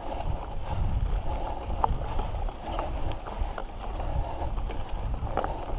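Mountain bike ridden on a dirt trail: tyres and frame knocking and rattling irregularly over the ground, over a constant low rumble.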